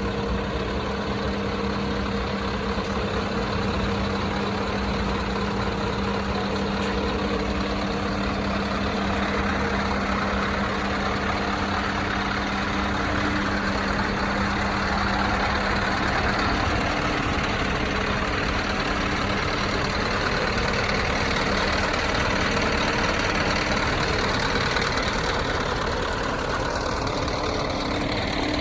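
Scania R560's V8 diesel engine idling steadily. A faint whine drops in pitch near the end.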